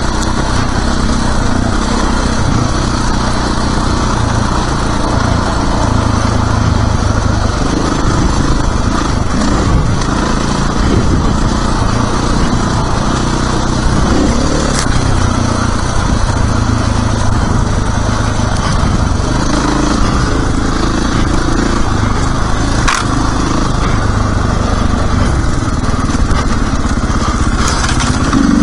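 Dirt bike engine running steadily as it is ridden, the revs rising and falling a little, with a couple of sharp clicks partway through.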